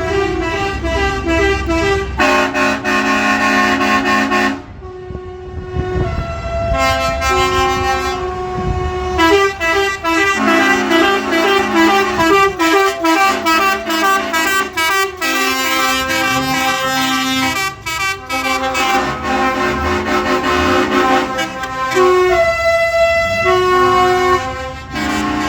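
Truck air horns sounding almost without pause, their tones shifting in quick steps like a tune, with a few short breaks.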